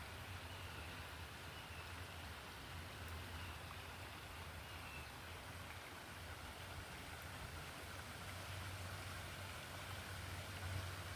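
Steady rushing of flowing water, faint, with a few thin bird chirps in the first half.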